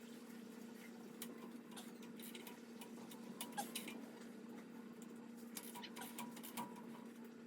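Scattered light metallic clicks and taps from hand tools working a harmonic balancer puller on an engine, a few bunched together, over a steady low electrical hum.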